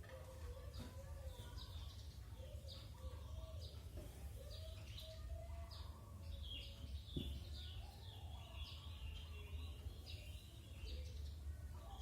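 Faint birdsong: many short, high chirps repeating throughout, with wavering lower calls, over a steady low hum.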